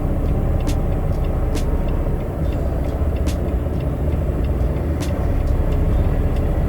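Semi-truck's diesel engine running with a steady low rumble, with a few sharp ticks every second or two.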